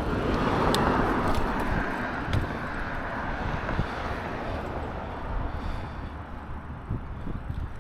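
Wind and tyre noise of a bicycle ride, fading steadily as the bike slows, with a few light clicks in the first couple of seconds.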